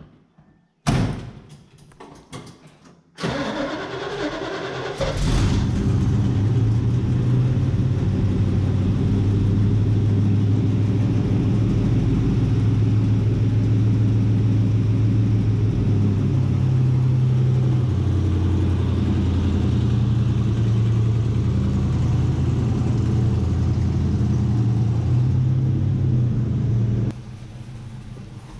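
A thump, then the 1982 Corvette's 5.7-litre Cross-Fire Injection V8 cranks over and catches about five seconds in, then runs steadily at idle until the sound drops off abruptly near the end.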